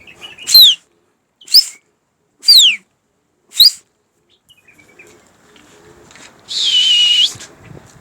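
A person whistling sharply: four short whistles about a second apart, alternately falling and rising in pitch, then one longer held whistle near the end.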